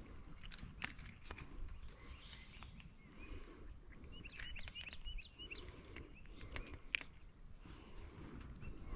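Small birds chirping in short clusters over a low wind rumble, with scattered sharp clicks and rustles as the rod and a just-landed crappie are handled; the loudest click comes about seven seconds in.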